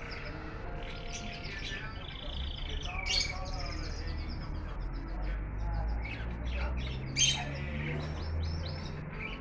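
Pet canaries chirping and trilling, with two louder sharp calls about three and seven seconds in, over a steady low hum.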